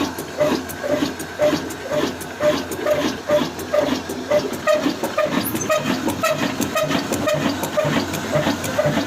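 A 22 HP diesel engine running with a slow, regular exhaust beat of about two beats a second, the beat coming a little faster about halfway through.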